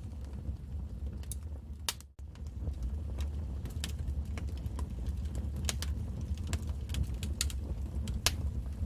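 Wood fire in a fireplace crackling: irregular sharp pops and snaps over a steady low rumble of burning, with a momentary drop-out about two seconds in.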